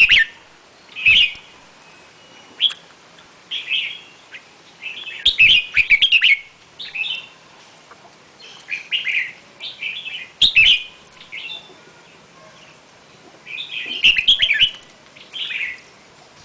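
A bird singing in short, bright chirping phrases, one phrase every second or so with brief pauses between.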